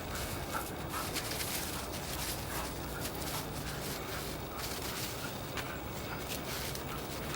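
Footsteps of someone walking, with faint short sounds repeating about every half second to a second over a steady background noise.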